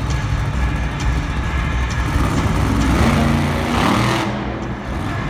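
Monster truck's supercharged V8 engine running loud, its pitch climbing as it revs up about halfway through.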